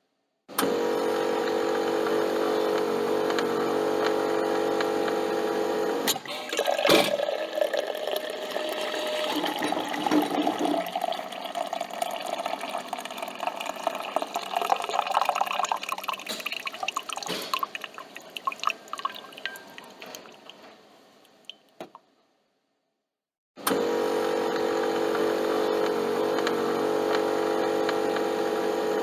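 Coffee machine running with a steady hum for about six seconds, then a click, then coffee pouring and dripping into the cup, fading out to silence. The same hum starts again near the end.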